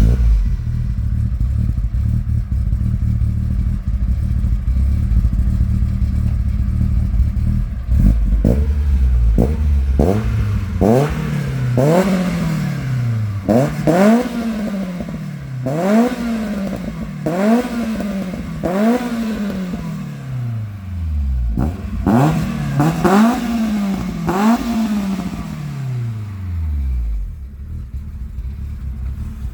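Opel Astra F GSi's 2.0 X20XEV 16-valve four-cylinder, with a C18XE head, Irmscher 256° camshaft, 4-1 header and 63 mm Supersprint rear silencer, idling steadily and then revved in a dozen or so quick throttle blips, each rising and falling back. It settles back to idle near the end.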